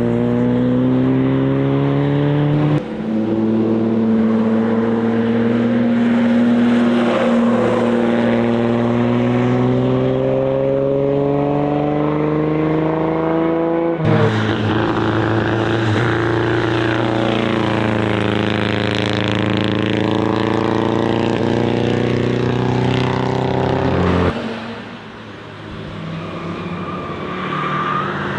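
Car engines accelerating hard past a racetrack corner, each pitch climbing steadily as the car pulls away. The engine note changes abruptly three times as one car gives way to the next.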